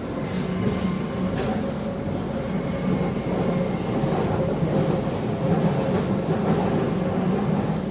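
Alstom 1996 Stock Jubilee line tube train running, heard from inside the carriage: a steady rumble of wheels and traction equipment with a faint steady whine and a couple of short clicks near the start.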